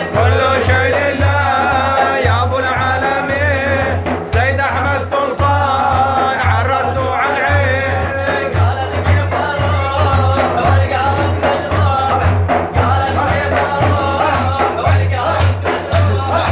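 Arabic Sufi devotional praise song (madih): a singing voice with a wavering melodic line over a steady, repeating drum beat.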